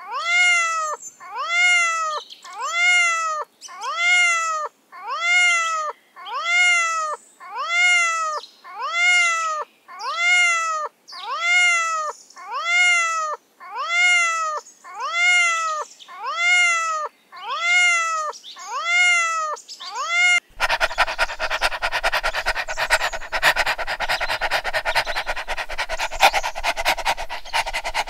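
Domestic cat meowing over and over: the same meow, rising then falling in pitch, repeats about seventeen times at even spacing, like a loop. About twenty seconds in it gives way to a dog panting fast.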